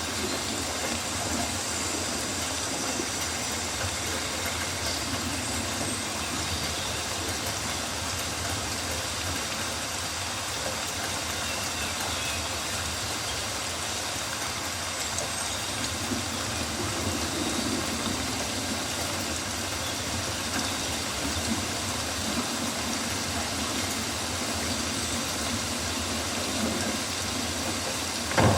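Steady rainforest rain: a continuous even hiss with a low rumble underneath and a few faint high chirps.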